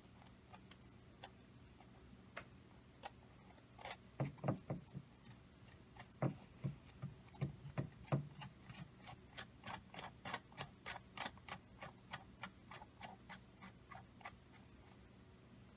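Small metal parts of a three-cylinder air engine clicking as it is assembled by hand. A few scattered ticks come first, then from about a third of the way in a run of light clicks that turns into a regular series of about three a second, stopping shortly before the end.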